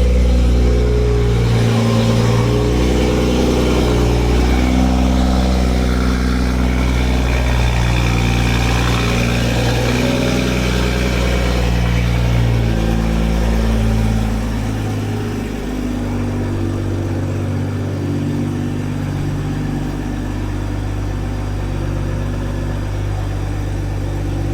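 BMW B58 3.0-litre turbocharged inline-six of a 2020 M340i, exhausting through a catted aftermarket downpipe, running at a cold-start fast idle in Sport+. About fifteen seconds in the idle drops to a lower, quieter, steady note as it settles.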